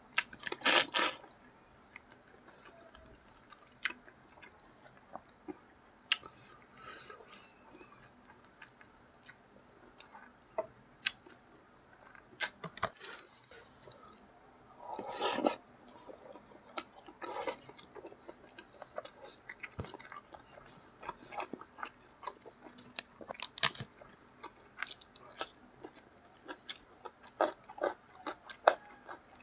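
Close-up chewing and biting of a person eating catfish in spicy gravy with rice: irregular short clicks and mouth sounds, with two louder bursts about a second in and around the middle.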